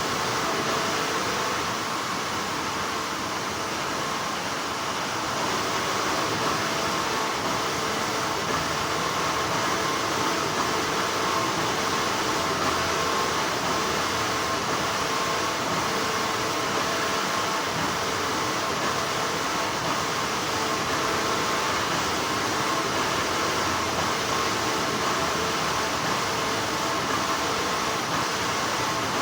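Continuous hum of textile factory machinery, a steady noisy drone with faint constant tones running through it.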